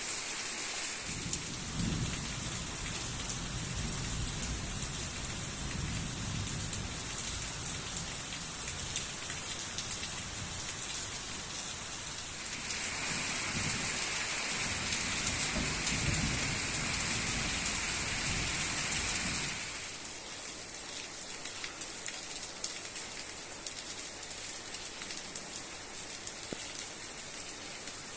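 Heavy rain falling steadily, with many sharp drop ticks. A low rumble runs under it for most of the first twenty seconds. The rain grows louder shortly before the rumble and the loudest stretch both stop abruptly about twenty seconds in.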